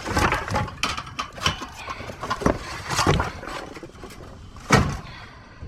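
Irregular knocks and clatters of scrap and debris being shifted inside a dumpster, with one louder bang near the end.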